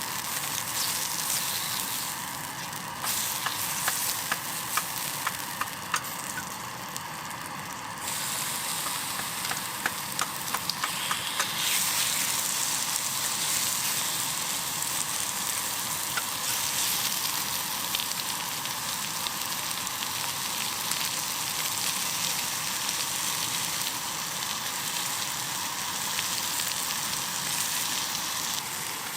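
Food sizzling in a pan, a steady hiss with sharp popping crackles in the first part.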